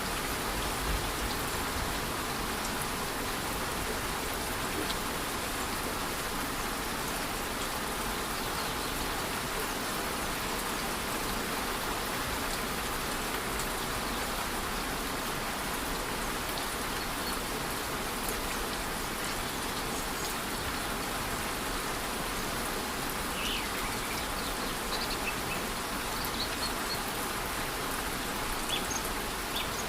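Light rain and a rainforest waterfall: a steady, even rush of falling water. A few short, high chirps come through in the last third.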